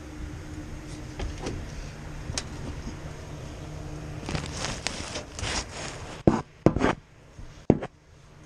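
Rubbing and scraping of materials being handled, then three sharp knocks close to the microphone, over a steady low hum.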